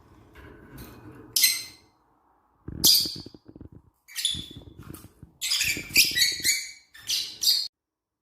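African lovebirds chirping: bursts of sharp, high chirps in clusters of several, thickest about two-thirds of the way through, over a low rumbling noise. The chirping stops abruptly near the end.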